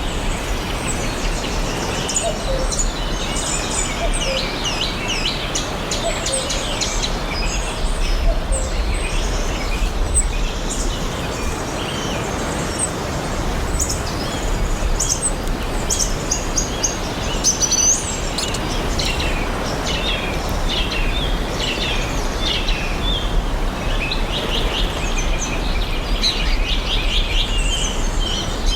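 Several forest songbirds chirping and singing, with many short rapid chirps and trills throughout, over a steady background hiss.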